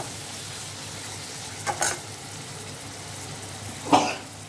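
Pieces of goat liver and lung sizzling as they fry in oil over a high flame in an aluminium pressure-cooker pan, stirred with a perforated metal skimmer that scrapes and clanks against the pot twice, the second time, near the end, the loudest.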